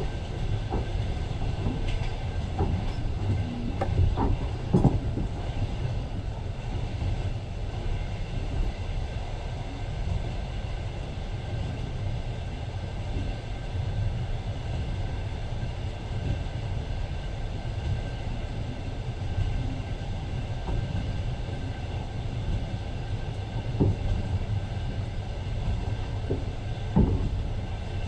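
Passenger train running along the track, heard from on board: a steady low rumble of wheels on rails with occasional sharp knocks as the wheels pass over rail joints.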